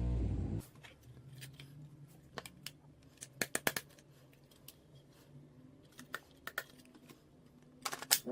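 A series of scattered sharp clicks and light handling noises over a faint low hum, after a sustained low horn-like tone that cuts off about half a second in.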